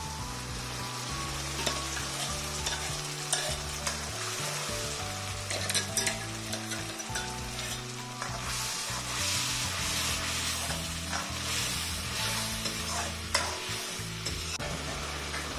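Tomato purée sizzling as it fries in hot oil with onions and ginger-garlic paste in a metal kadai, while a steel spoon stirs and scrapes against the pan.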